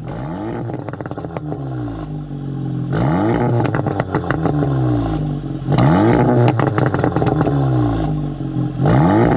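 Seat Leon Cupra 300's 2.0 TSI turbo four-cylinder through a 3.5-inch stainless valved sport exhaust, revved up and let fall back about four times, the later revs loudest, with crackles as the revs drop.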